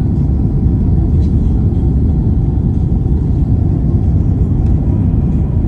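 Boeing 767 airliner during landing: a steady low rumble of engine and airflow noise heard inside the cabin.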